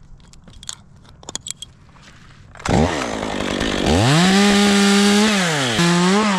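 Chainsaw engine catching with a sudden start a little under halfway in, after a few light knocks. It revs up to a steady full-throttle whine, eases off, then is blipped up again near the end.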